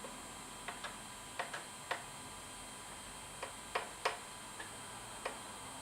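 Sharp plastic clicks at an irregular pace, some in quick pairs, as buttons on a handheld drone remote controller are pressed while paging through menus. About ten clicks over a faint steady electronic hiss.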